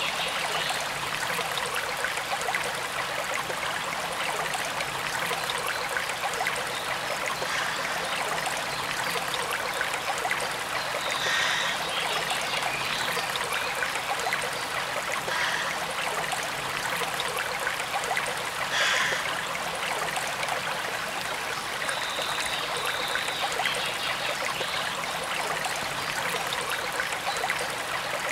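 Forest stream running steadily, a continuous rush and trickle of water, with a few brief high chirps.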